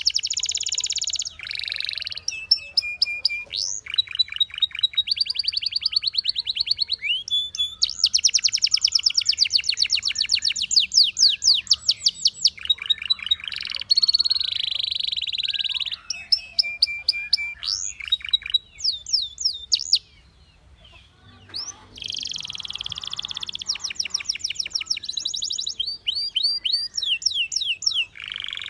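Canary singing a long song of fast trills: rapid runs of repeated whistled notes that switch pitch and pattern every second or two, with a short pause a little past the middle.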